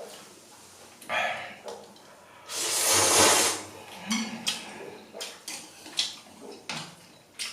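A person slurping instant ramen noodles: a short slurp about a second in, then a longer, louder one about three seconds in. These are followed by several light clicks of utensils against the bowl.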